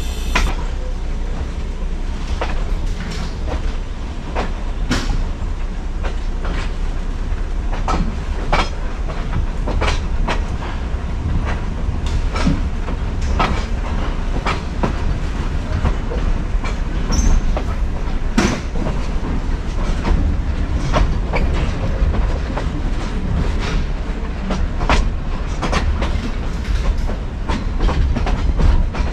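Passenger train rolling along the track: a steady low rumble of the wheels on the rails, with irregular clacks and knocks as the wheels pass over rail joints.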